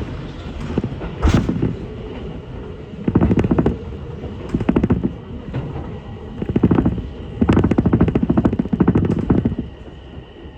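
Ichibata Electric Railway train heard from on board, running with a low rumble broken by several bursts of rapid rattling clatter from the wheels and running gear, each about a second long, as it nears a station.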